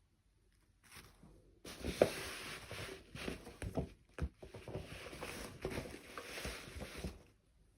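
Rustling and crinkling of toy packaging being handled, with several sharp clicks. It starts about a second and a half in and stops shortly before the end.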